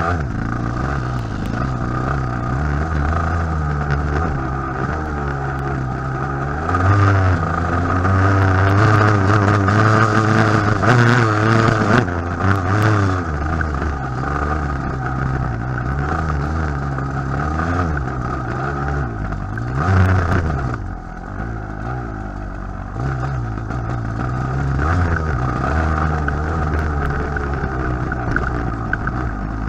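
TM enduro motorcycle engine heard from the rider's helmet, revs rising and falling continually as the bike is ridden round a rough dirt track. It is louder and revving harder for several seconds in the first half.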